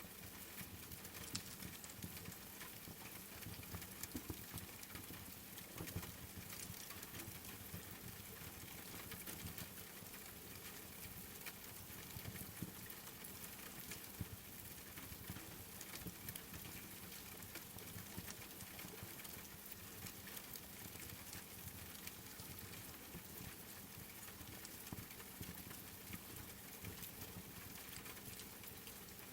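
Steady rain patter with small, irregular crackles and pops from a wood fire in a fireplace.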